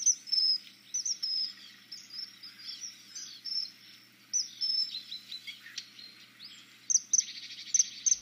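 Birdsong: small birds giving many short, high chirps one after another, with a rapid trill near the end.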